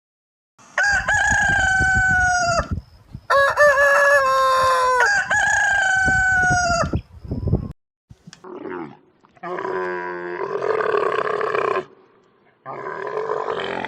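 Rooster crowing: three long crows one after another, each holding a pitch that sags slightly at the end. After a short gap come two rougher, noisier animal calls of a different kind.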